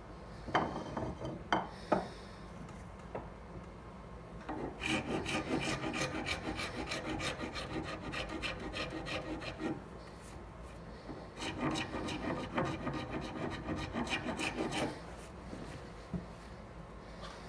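Hand file being worked back and forth across a knife handle in two runs of quick, even strokes, with a short pause between them. A few light knocks come in the first couple of seconds.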